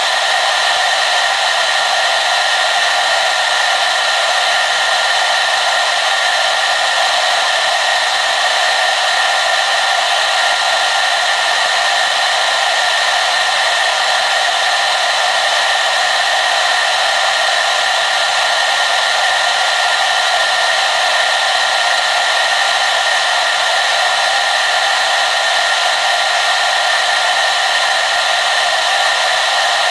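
Hair dryer running steadily: an even rush of blown air with a thin whine held at one pitch and almost no low rumble.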